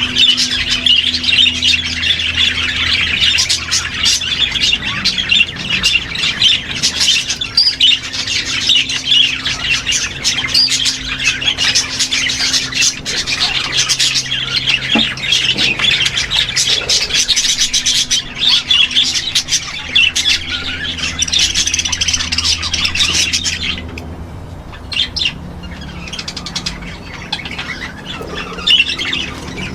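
A crowded aviary of small parrots, many chattering and squawking over one another in a dense, continuous din. About 24 seconds in the chorus suddenly thins to a few scattered calls.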